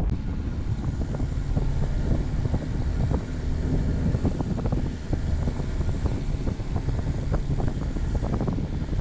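Vehicle driving: a steady low rumble of engine and road, with many small rattles and knocks over it and wind buffeting the microphone.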